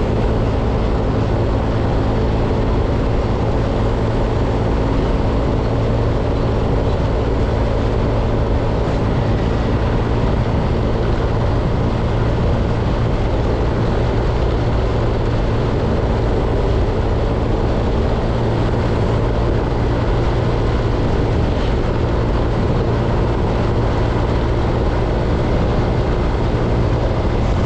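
A motor vehicle's engine running steadily at an even, unchanging pitch.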